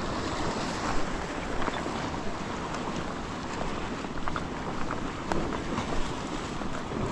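Sea surf washing against rocks, with wind buffeting the microphone and a few small clicks and splashes scattered through it.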